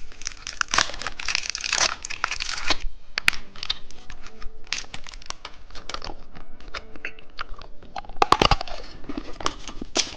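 Plastic candy packaging crinkling and crackling as it is handled and opened, densest in the first three seconds and sparser after, with a sharper knock about eight seconds in.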